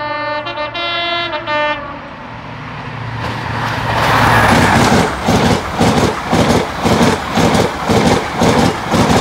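InterCity 125 High Speed Train with a Class 43 diesel power car sounding its two-tone horn for about the first two seconds. The train then runs through at speed, the engine and passing coaches building up loud, with the wheels clattering over the rail joints in a quick regular beat.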